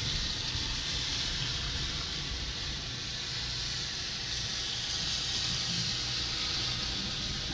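Steady rushing hiss with a low rumble underneath: wind and rain on an outdoor webcam's microphone during a storm.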